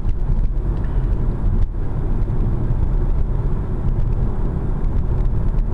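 Car driving along at road speed, heard from inside the cabin: a steady low rumble of tyres and engine.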